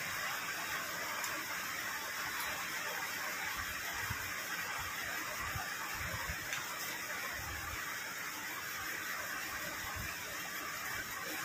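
Steady rain: an even rushing hiss.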